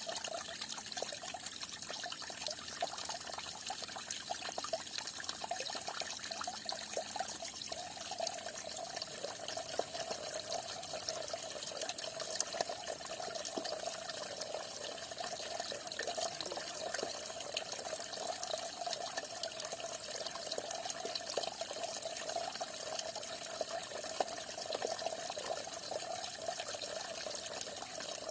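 Falling water splashing steadily, a continuous rush with a fine patter of small splashes and no change in flow.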